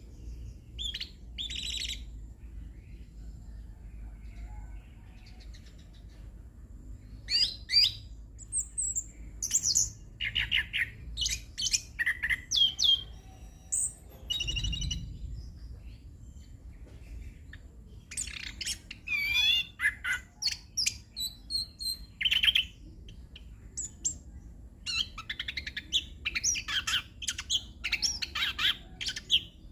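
Chestnut-capped thrush (anis kembang) singing a rolling, varied song full of mimicked phrases: rapid high whistles, trills and chirps in bursts of several seconds with short pauses between, over a faint low hum.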